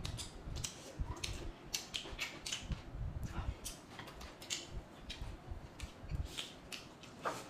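Close-miked eating sounds: a rapid, irregular run of clicks and crunches from chewing, with soft low thumps, and a short rising squeak-like tone near the end.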